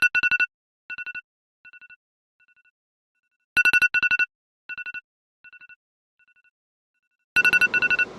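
Electronic ringtone-style bleeps: a quick run of high two-note beeps followed by fainter and fainter echoing repeats, the pattern starting over about every three and a half seconds, three times.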